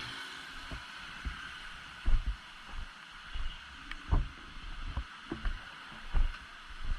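Steady hiss of heavy rain, with irregular low thumps on the microphone, about a dozen of them and loudest about two, four and six seconds in.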